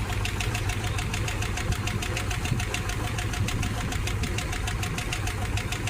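Engine idling with a rapid, even valve-train ticking over its low hum, from a rocker arm left too loose (lash not adjusted enough), which the owner later tightens.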